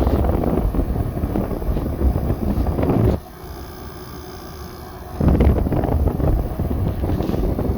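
Samsung window air conditioner running, its airflow rushing across the microphone. About three seconds in the rush drops away suddenly, leaving a quieter steady hum for about two seconds, and then it comes back.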